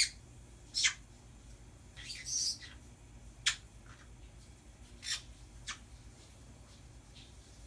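Pet birds giving short, sharp chirps and squawks, about five calls spaced out over several seconds, one of them a brief chattery run.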